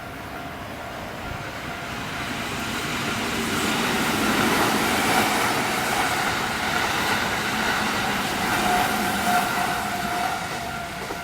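Kintetsu Nara Line train passing over a level crossing, swelling to its loudest about four seconds in and easing off near the end, while the crossing's electronic warning bell keeps ringing.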